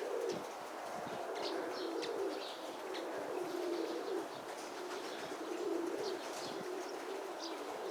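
Domestic pigeons cooing steadily in a low, continuous murmur, with a few faint higher chirps.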